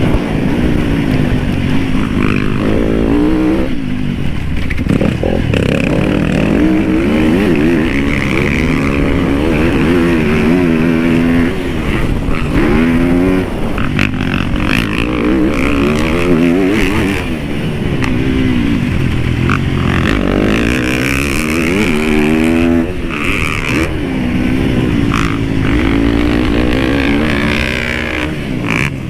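Dirt bike engine being ridden hard, its pitch repeatedly climbing and dropping every second or two with throttle and gear changes.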